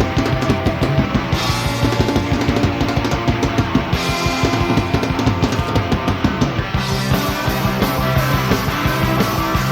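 Live four-piece rock band playing an instrumental passage with no vocals: fast, steady drums with electric guitars and bass guitar.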